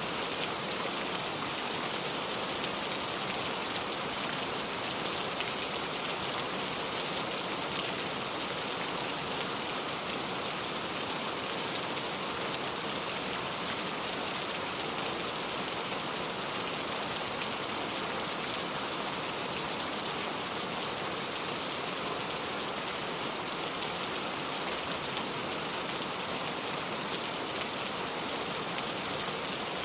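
Heavy rain pouring steadily, a dense even hiss of drops with no let-up or breaks.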